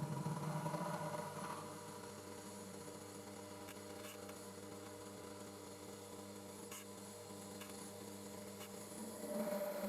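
Homemade belt grinder running steadily, its motor and belt giving a constant multi-toned hum. A louder rushing sound fades away in the first second or so and comes back briefly near the end.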